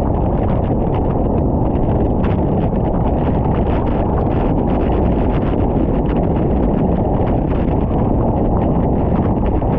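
Steady, loud wind rumble on the microphone of a moving bicycle, with many faint irregular ticks throughout.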